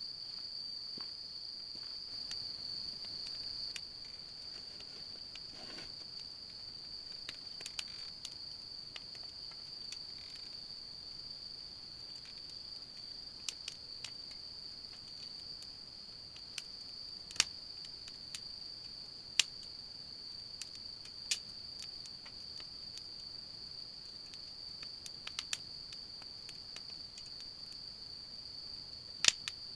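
Crickets singing: a steady, high-pitched insect chorus that does not let up. A few sharp clicks stand out over it, the loudest about halfway through and again near the end.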